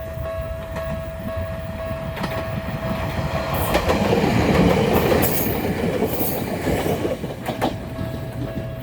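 Ueda Electric Railway Bessho Line 6000-series electric train, two coupled sets, passing close by. Its rumble and wheel clatter swell to a peak about halfway through and fade, with sharp high wheel squeals and clicks. A level crossing warning bell rings steadily before the train drowns it and is heard again near the end.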